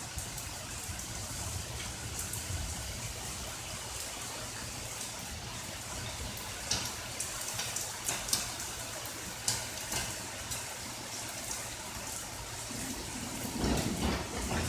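Steady rain with scattered close drops ticking and splashing. Near the end a louder, deeper rush of water builds up.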